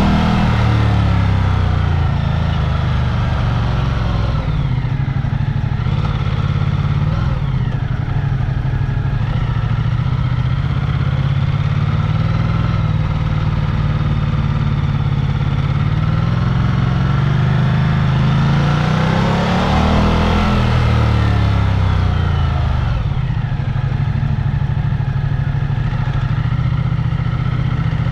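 Vehicle engine running while under way, its pitch falling just after the start, then climbing to a peak about two-thirds of the way through and dropping back as it speeds up and slows down.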